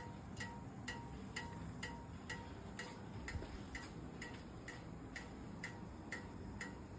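Faint, evenly spaced metallic ticking, about two ticks a second, from a just-stopped Royal Enfield Bullet's hot exhaust as it cools and its metal contracts.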